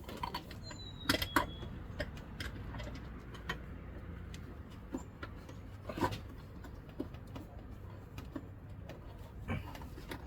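Scattered light clicks and knocks of hand work on parts, with a close pair of louder clicks about a second in and another knock about six seconds in, over a low steady rumble.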